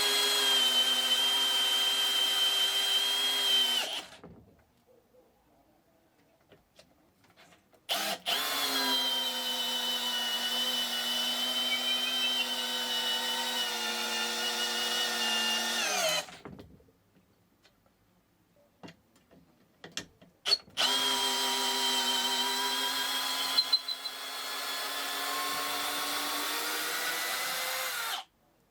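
Bosch GSR 185-Li 18 V cordless drill running in three bursts of several seconds each, a steady motor-and-gearbox whine that starts and stops abruptly with short pauses between. During the last burst it gets quieter about three seconds in.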